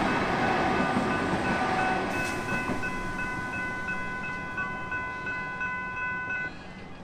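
An electric suburban train runs through a level crossing, its rumble fading as the last carriage clears about two seconds in, while the crossing's warning bells keep ringing with a steady pulse. The bells stop about six and a half seconds in, after the train has gone.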